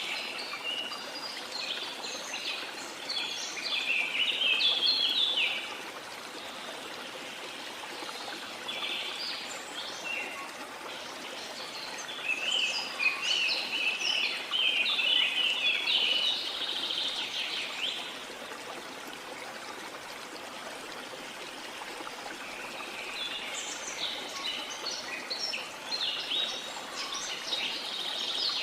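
Steady rush of a waterfall, with tropical forest birds chirping in quick clusters that come and go over it.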